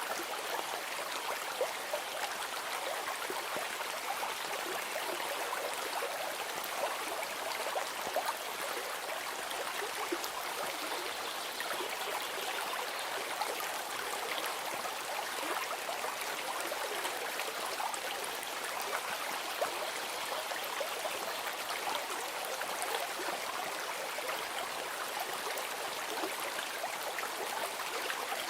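Running water of a stream, flowing steadily with a fine splashing texture.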